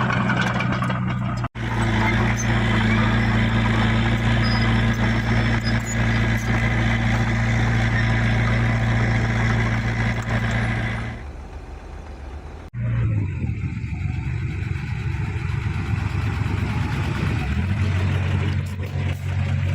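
Heavy diesel engine of earthmoving machinery running steadily under load. The sound cuts off abruptly twice, about a second and a half in and again near 13 seconds, and it runs quieter for a moment before the second cut.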